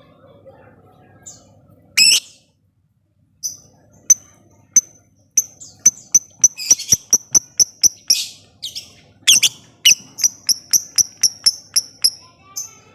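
Lovebird chattering in the 'ngetik' style: a loud harsh call about two seconds in, then runs of sharp high chips in quick succession, like typing, with another harsh call near the middle before a second fast run.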